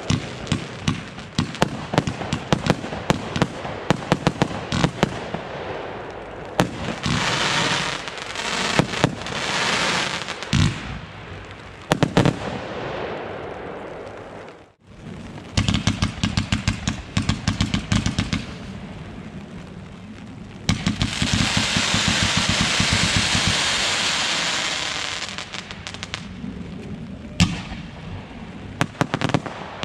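Consumer firework batteries firing: a rapid string of bangs and pops mixed with stretches of dense hissing. About halfway through, the sound drops out for a moment, then another battery starts with fast volleys of bangs and a long hissing stretch.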